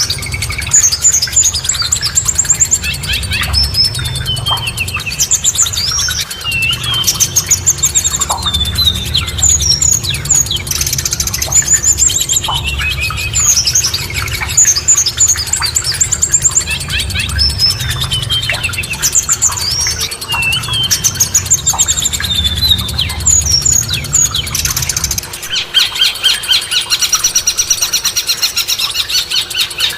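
Songbirds singing in quick, varied chirps and whistled phrases over a low steady rumble. About 25 seconds in, the rumble drops away and a denser, rapidly repeating buzzy trill takes over.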